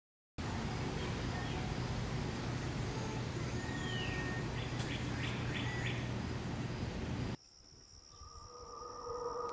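Outdoor ambience: a steady rumbling noise with a bird chirping a few times. It cuts off suddenly about seven seconds in, and quiet music starts to swell.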